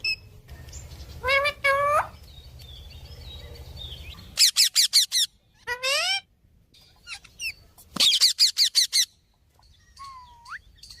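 Pet parrot calling: rapid runs of short, sharp notes, one run about four seconds in and another about eight seconds in, between single calls that rise in pitch, and a short rising whistle near the end.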